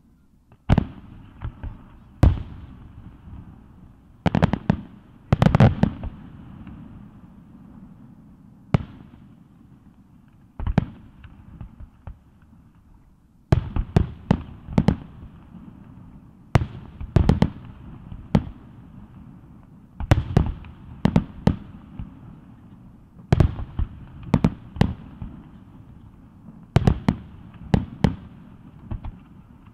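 Aerial firework shells bursting, each a sharp boom followed by a low rolling echo. At first single booms come a second or two apart; in the second half they come in quick clusters of two to four every few seconds.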